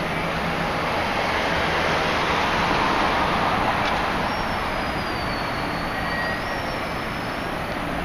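NJ Transit multilevel push-pull train running on the far track: a steady, loud rumbling rush. A faint high whine wavers up and down through the second half.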